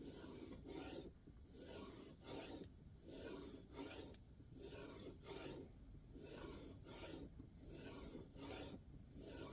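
A knife blade of N690 steel pulled edge-trailing across a compound-loaded leather strop on a guided sharpening system: faint, even rubbing strokes at about one a second. These are the final stropping passes that polish and lightly convex the edge.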